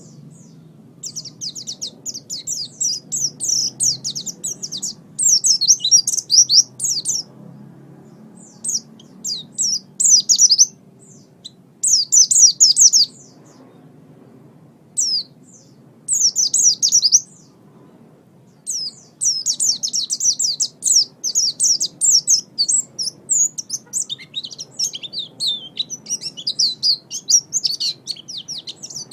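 Pleci (white-eye) singing: fast, high twittering phrases of a second or two, separated by short pauses, turning into a longer, more continuous run of twittering about two-thirds of the way through.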